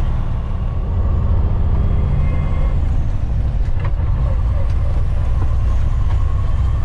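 Tow truck's engine running steadily with a low drone as it pulls out and drives off towing the race car trailer.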